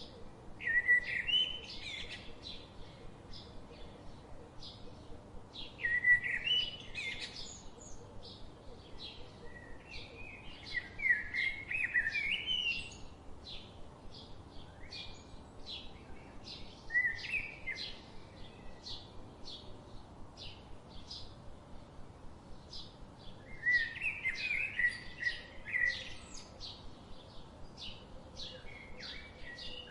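Small birds chirping, with short repeated chirps throughout and louder warbling phrases every few seconds.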